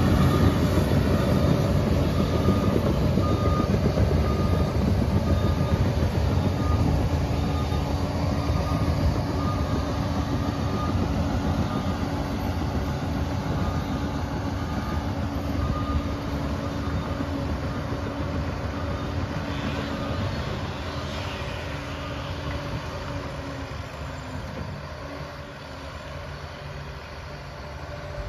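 Liebherr 746 crawler dozer's diesel engine running steadily under work, gradually getting quieter through the stretch.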